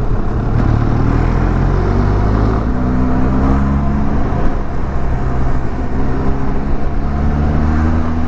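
Motorcycle engine running steadily under way, its note rising and falling a little with the throttle, over the rush of wind and road noise.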